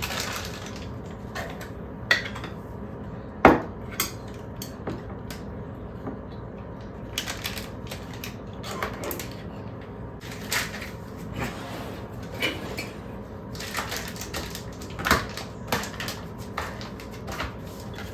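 Kitchen handling sounds: dishes and utensils knocking and clinking, with a few short stretches of rustling and one sharp knock about three and a half seconds in.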